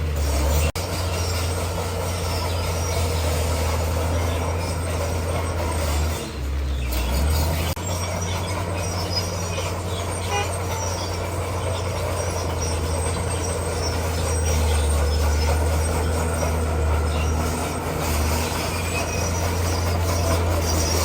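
Bulldozer's diesel engine running with a steady low drone, with the clanking of its steel tracks working over stone.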